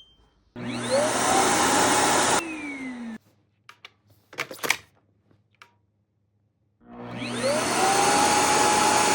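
Shark Evo Power System Neo+ cordless vacuum motor switched on twice. The first time it spins up with a rising whine to a steady high running pitch, then switches off after about two seconds and winds down with a falling whine. After a few short clicks it starts again, rising to the same pitch, and cuts off suddenly near the end.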